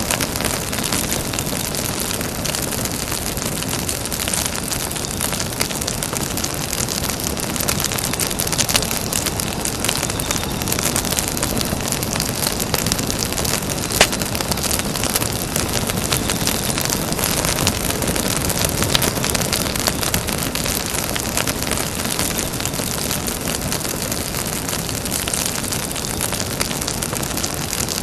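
Campfire burning: a steady rushing hiss with many small crackles of burning wood, and one sharper pop about halfway through.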